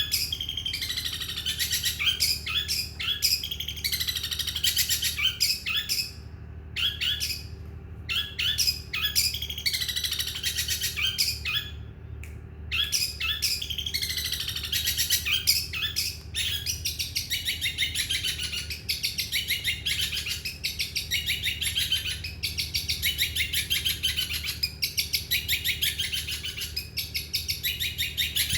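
Long-tailed shrike (cendet) singing: rapid, chattering runs of high chirps and falling trilled phrases, repeated with only brief pauses, over a steady low hum.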